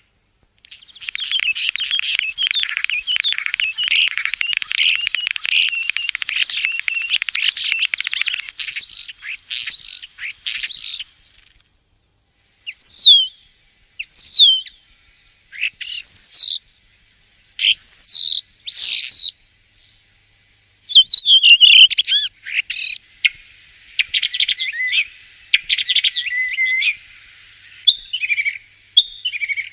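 European starling singing: a long run of rapid chattering and rattling warbles, then after a short break several loud separate whistles, some sliding down in pitch, then more chattering near the end.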